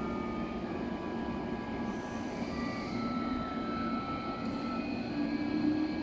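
Electric train running through the station platform: a steady rumble under several high squealing tones that shift and come and go, one sliding down in pitch about two seconds in.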